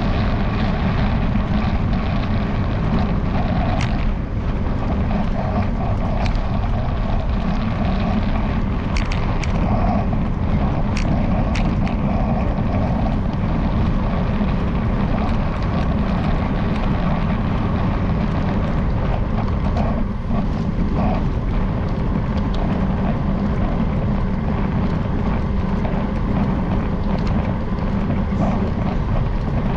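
Steady rumble of wind on the microphone and road noise from a moving bicycle, with short clicks of the camera mount rattling, most often in the first half.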